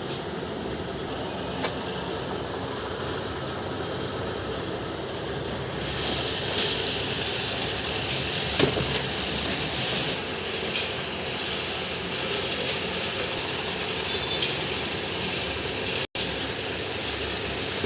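Steady mechanical running noise with scattered sharp metallic clicks and knocks; one knock about halfway through is louder than the rest.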